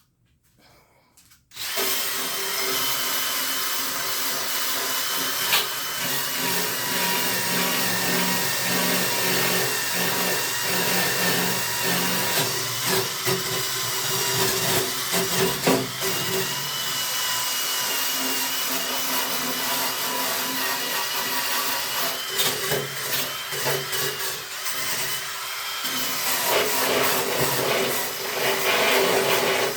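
Electric power tool motor starting about a second and a half in and then running steadily under load, its pitch wavering a little as it works.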